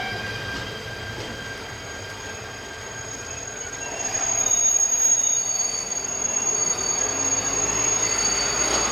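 Shinano Railway 115 series electric train on the rails, its steel wheels squealing in high steady tones that grow louder from about four seconds in.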